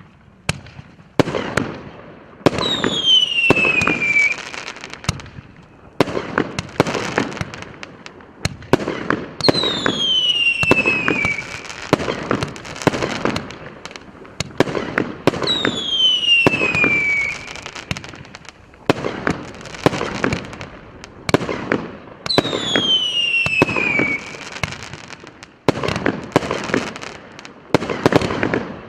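A 60-shot, 1-inch consumer fireworks cake firing in rapid volleys of launch thumps, pops and crackling bursts. Four times a falling whistle sounds for about two seconds among the shots.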